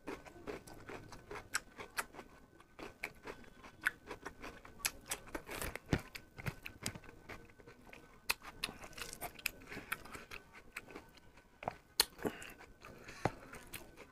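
A person chewing a mouthful of rice and curry eaten by hand, with many irregular soft clicks and smacks of the mouth.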